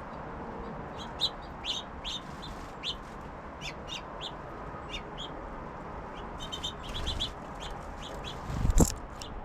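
Small songbirds at a backyard feeder giving short, high chirps and call notes, with a quick run of notes past the middle. Near the end, one loud low thump.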